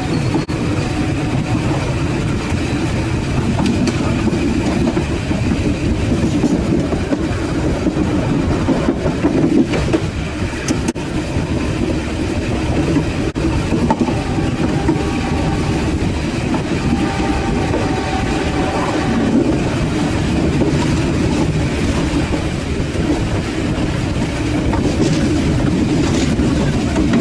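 Passenger train running along the track, a steady loud running noise from the wheels and rails, with a faint whine about halfway through.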